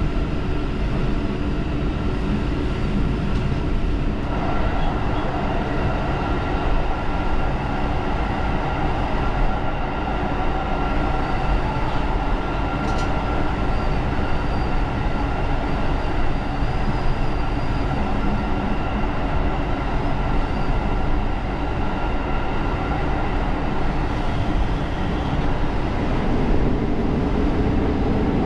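Diesel railcar running along the line, heard from on board: a steady mix of engine and track noise with a few steady tones, its sound growing fuller about four seconds in.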